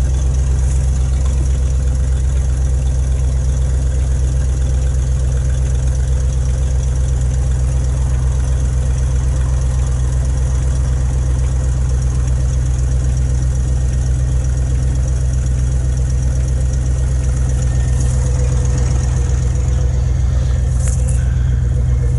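Range Rover P38's V8 idling steadily at an even pitch, breathing through a de-restricted exhaust: the standard system removed and replaced by just an offset silencer and a small turn-down pipe.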